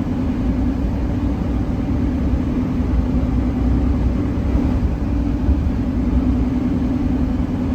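Engine and road noise heard inside a vehicle cabin while driving at a steady speed: a constant low drone with a steady hum.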